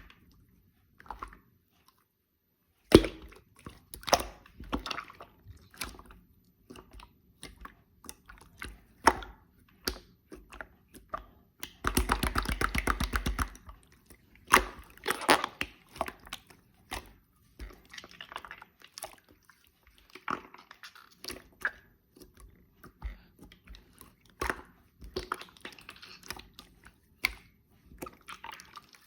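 Clear and pink slime being pressed, poked and stretched by hand, giving wet clicks and small popping snaps at irregular intervals. About twelve seconds in comes a fast, dense run of crackling clicks lasting about a second and a half, as the slime is worked quickly.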